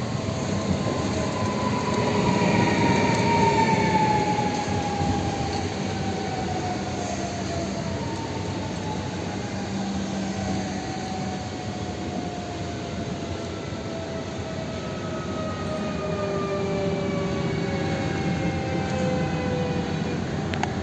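TLK Bolko passenger train rolling by, with a whine that falls slowly in pitch as it slows down. It is loudest a few seconds in.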